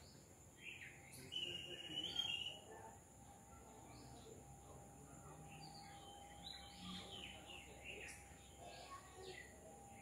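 Faint birdsong in a garden: scattered chirps with a held, whistled note a little over a second in, and a busier run of chirps in the second half. A faint steady tone runs underneath.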